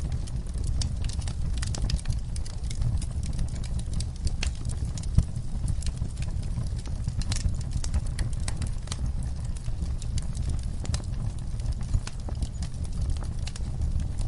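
Campfire crackling: frequent sharp pops and snaps over a low, steady rumble of burning, with one louder pop about five seconds in.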